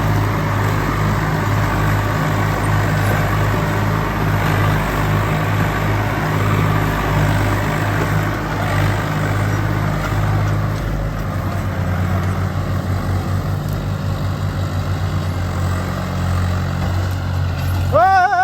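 Tractor's diesel engine running steadily. About eleven seconds in, the deep rumble drops away and the engine note changes. Near the end a loud, wavering high tone starts over it.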